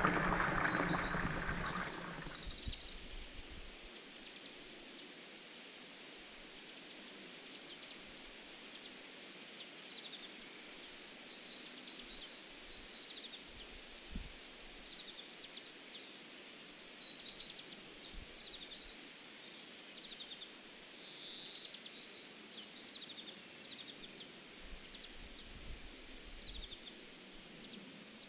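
Faint outdoor ambience with small birds chirping: several short runs of quick high chirps, spread through. In the first two seconds a louder rushing noise runs, then cuts off suddenly.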